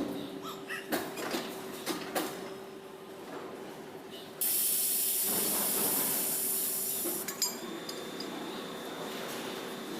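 A few sharp metallic clicks and knocks, then a loud hiss of escaping air that starts suddenly about four and a half seconds in and dies away about three seconds later.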